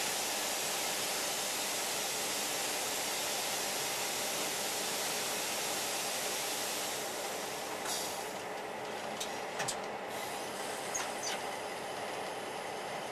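Freight train on the move: a steady rushing hiss that eases about seven seconds in, followed by a handful of sharp clicks and a couple of brief, faint high squeals.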